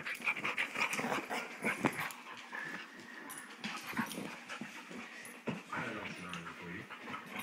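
Boxer dog scuffling during rough play: scattered soft clicks and rustles with faint dog noises, but no barking.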